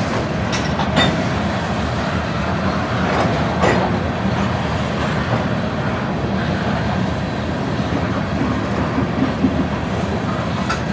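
Train rolling past: a steady rumble of wheels on rail, with a few sharp clicks of wheels over the track.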